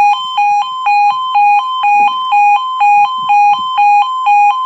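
Level crossing warning alarm: a loud two-tone electronic yodel that alternates between a lower and a higher tone about twice a second. It warns that a train is approaching.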